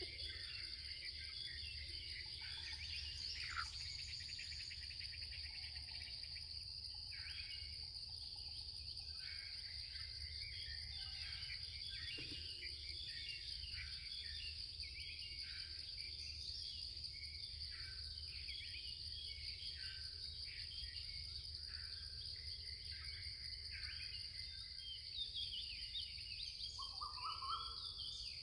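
Forest ambience: a steady, high-pitched insect drone, with many short bird chirps over it. A brief, lower bird call comes near the end.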